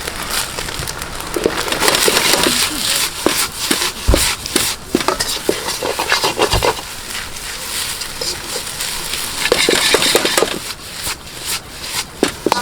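Fried rice sizzling in a wok while a ladle scrapes and clanks against the pan in quick bursts of stirring and tossing, busiest about two to five seconds in and again near ten seconds.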